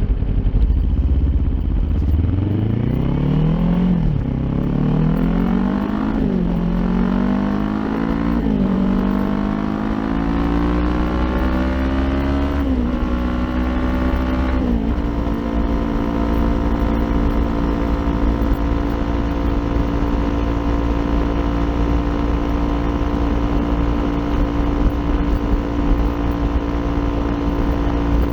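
Kawasaki Ninja 400 parallel-twin engine with an Akrapovic aftermarket exhaust, accelerating hard through the gears: the pitch climbs and drops back at each of five upshifts in the first fifteen seconds, then the engine holds a steady note while cruising.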